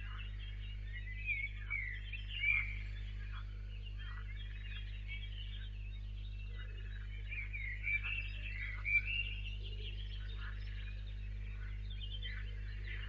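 Several birds singing in quick, varied chirps and short sweeping notes, a little louder twice, over a steady low hum.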